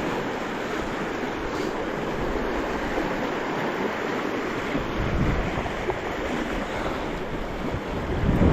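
Steady rush of flowing stream water, with wind buffeting the microphone in low gusts about five seconds in and again near the end.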